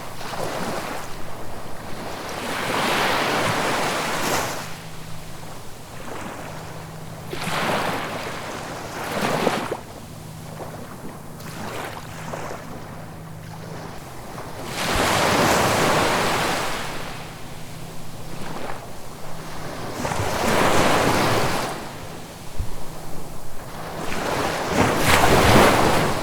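Ocean waves breaking and washing in, coming in repeated surges that swell and fade about every four to six seconds.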